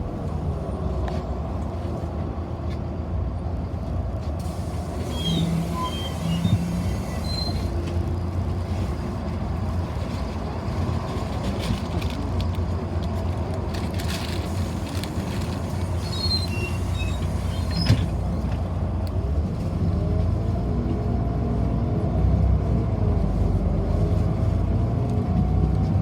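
City bus running in traffic, heard from inside the passenger cabin: a steady low drone with a couple of short knocks. Near the end a whine rises and falls in pitch as the bus speeds up and slows down.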